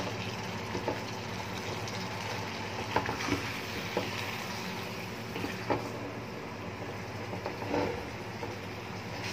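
Tofu and black beans stir-frying in a nonstick pan: a steady sizzle, with the scrapes and knocks of a silicone spatula against the pan every second or two, over a low steady hum.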